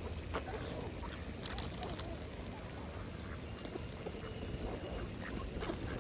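Mallard ducks feeding in shallow water: scattered short, soft quacks mixed with quick splashy clicks from their bills working the water, over a steady low rumble.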